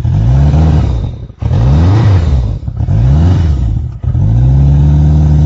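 1979 Yamaha XS1100's air-cooled inline-four engine, warmed up and running sweet, blipped three times on the throttle, rising and falling in pitch, then settling to a steady idle for the last second and a half.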